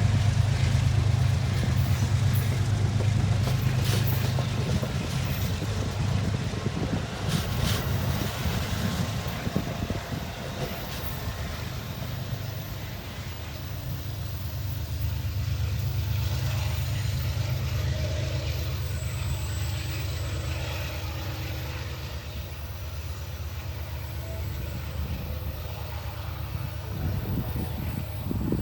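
Amtrak train's diesel locomotive running with a steady low drone that slowly fades, with a few faint metallic clanks.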